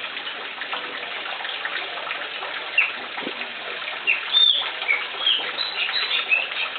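A flock of black birds fluttering and splashing in water, with a run of short, high chirps in the second half.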